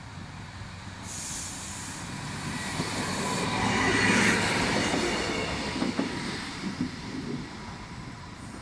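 Class 153 single-car diesel multiple unit passing close by: its diesel engine and wheels on the rails grow louder to a peak about four seconds in, then fade as it moves away.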